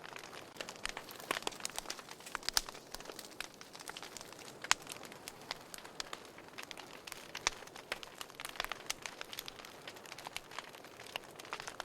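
Fire in a fireplace crackling, irregular sharp pops over a soft steady hiss; the loudest pop comes just under five seconds in.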